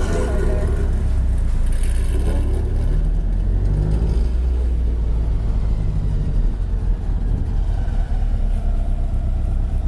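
Flat-four boxer engine of a Subaru-type sports coupe with aftermarket exhaust work, idling with a low, steady exhaust drone heard inside the cabin. The pitch lifts slightly about three to four seconds in, as with a light touch of throttle.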